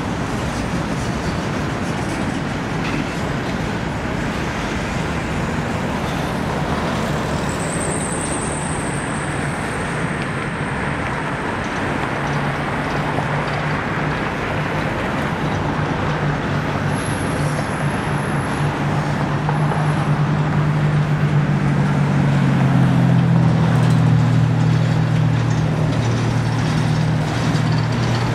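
CSX coal hopper cars of a long freight train rolling past with a steady rumble of steel wheels on the rails. A brief high wheel squeal comes in about eight seconds in, and a low drone grows louder in the last third.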